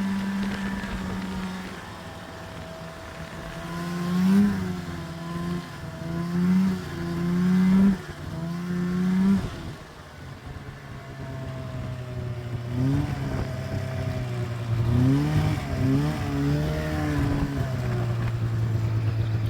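Snowmobile engine running. Partway in it is revved four times, each rev rising in pitch and dropping off sharply. After a short dip comes a quick series of revs, and then it settles into a steady, lower-pitched run near the end.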